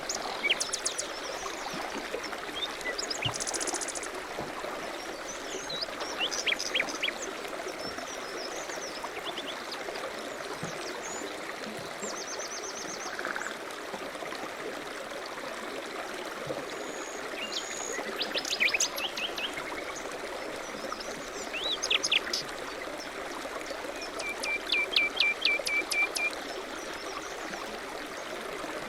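Steady rush of flowing river water, with small songbirds chirping and singing over it in short phrases; a rapid run of repeated notes comes near the end.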